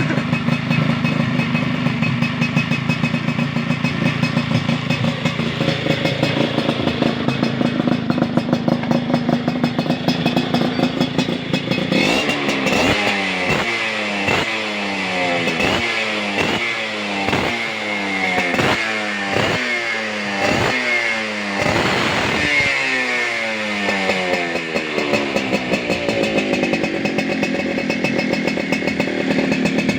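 Yamaha Alfa two-stroke motorcycle engine, fitted with a PWK 24 carburetor, idling steadily. About twelve seconds in it is revved in quick throttle blips, about one a second, each rising and falling in pitch. A longer rev dies away and it settles back to idle near the end.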